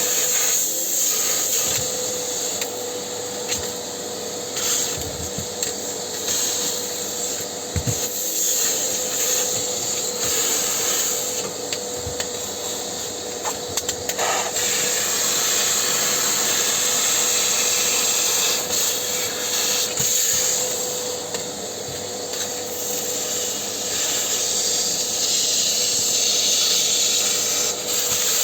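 A vacuum cleaner running with a steady hum, with rubbing and scraping over it and a few short knocks, as putty dust is cleaned out of a fireplace hood.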